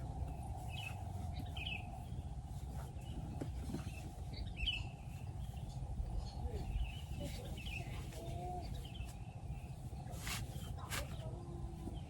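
Small birds chirping in short, repeated calls over a steady low rumble, with two sharp clicks about ten seconds in.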